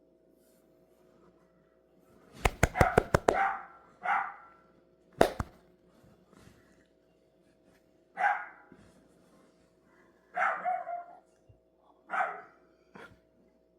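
A dog barking in short single barks, about five times, a few seconds apart. A quick run of sharp knocks comes about two and a half seconds in and another single knock about five seconds in; these are the loudest sounds, over a faint steady hum.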